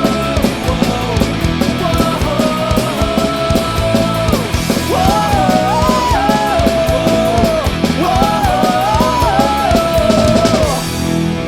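Instrumental break of a punk rock song: full band with drum kit and a melodic lead line that bends and slides. Near the end the drums and cymbals drop out.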